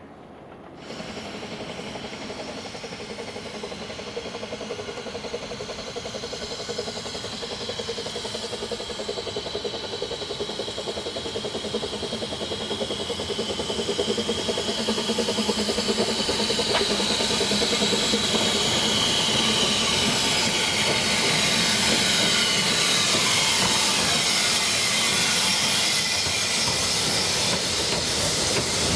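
Narrow-gauge steam train running with steam hissing, starting abruptly about a second in and growing steadily louder.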